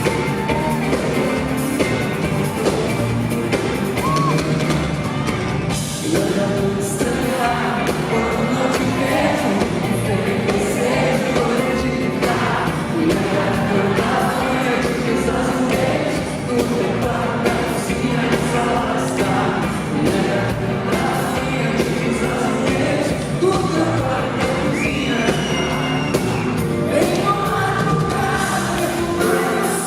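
Live pop-rock concert music: a band with drums playing under a sung vocal line.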